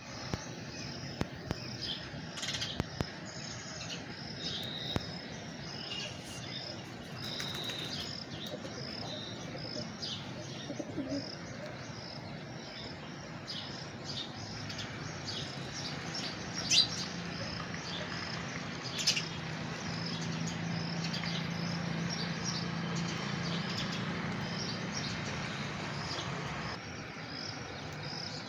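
Birds chirping and calling, over an evenly repeated high chirp about twice a second, with a couple of louder sharp calls past the middle. A low steady hum joins in the second half and stops near the end.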